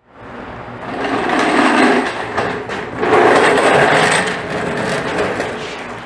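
Sandpaper rubbing over a car's painted panel during wet sanding: a rough, hissy scrubbing that swells twice, about a second in and again about three seconds in.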